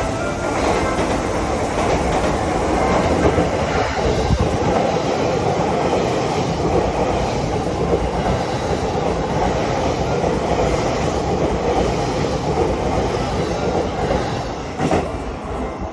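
Train running through the station without stopping: a steady, loud noise of wheels on rails, with a sharp knock near the end as the sound begins to ease off.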